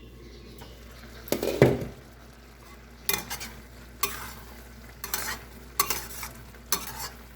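A spoon or ladle stirring rice porridge in a cooking pot, in short strokes about once a second, after a louder clatter about a second in.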